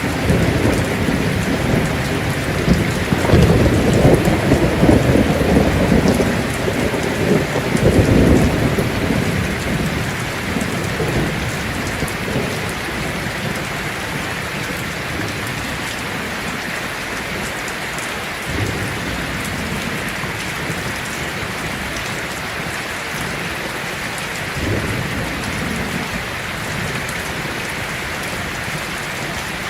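Heavy rain drumming steadily on a tin roof. A long low roll of thunder swells in at the start and dies away over the first third, with fainter rumbles later.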